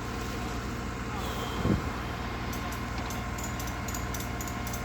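Truck engine running steadily, with one brief thud about one and a half seconds in and faint light clicking in the second half.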